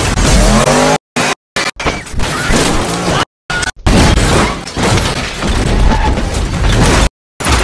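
A loud car crash: smashing and banging noise mixed with rock music, cut off by sudden complete silences several times.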